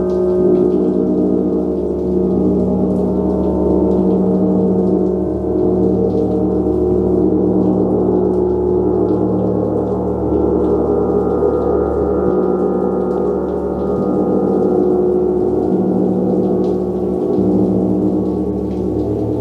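Gong played continuously: a dense, steady wash of many overlapping ringing tones with no pause between strokes.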